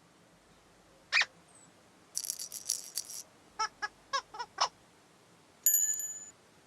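A string of playful cartoon sound effects. A single squeak is followed by a short high rattle, then a quick run of five squeaky chirps, and near the end a brief bell-like chime that rings and fades.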